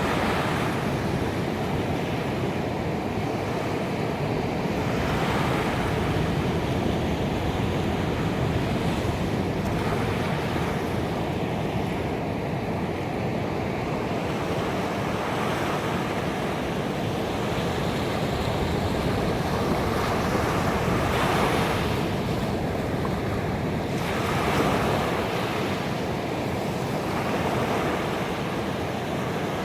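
Ocean waves breaking and washing up on a beach, a continuous surf with swells that rise and fall every few seconds.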